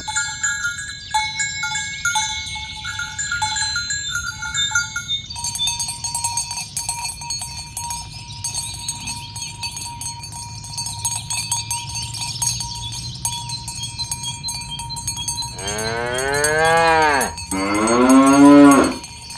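Cowbells on a walking herd of cattle clinking and tinkling steadily. Near the end a cow gives two long, loud moos, one right after the other.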